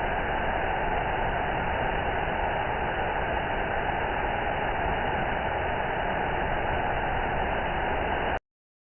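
Steady rush of a waterfall, cutting off abruptly near the end.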